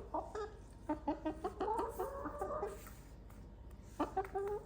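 Hens clucking in a run of short calls over the first few seconds, then again briefly near the end.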